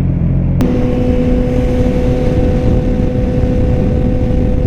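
Yamaha R6 sport bike's inline-four engine running while riding. The note changes abruptly about half a second in, then holds a steady pitch.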